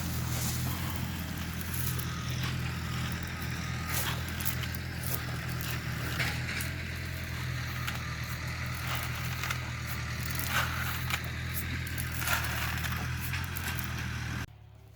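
Tractor engine running at a steady speed, with scattered crackles and clicks over it; the sound cuts off abruptly near the end.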